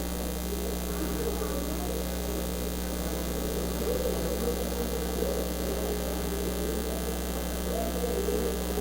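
Steady electrical mains hum from the recording's audio feed, with a faint muffled murmur over it.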